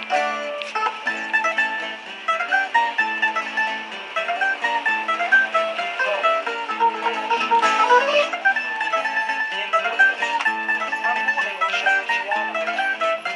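Two musicians playing plucked string instruments together: a tune of quick, separate plucked notes over a lower accompaniment.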